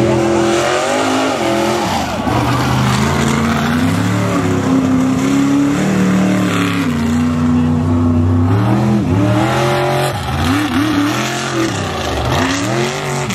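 Mega mud truck engine at high revs, its pitch climbing and dropping over and over as the throttle is worked, with quick rev swoops near the end.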